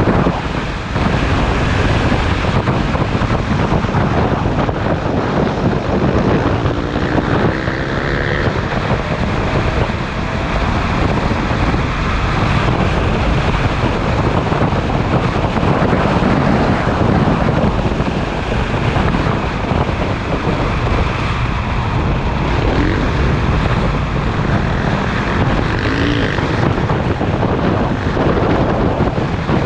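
Motorcycle at riding speed heard through heavy wind rush on the microphone, the engine running underneath, with a brief rising engine note about seven seconds in.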